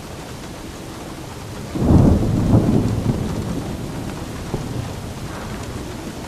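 Steady rain with a clap of thunder about two seconds in, a low rumble that peaks within a second and rolls away over the next few seconds.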